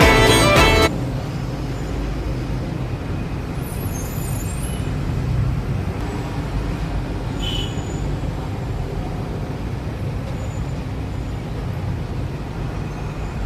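Music cuts off about a second in, leaving a steady low rumble of background noise, with a couple of faint brief high sounds along the way.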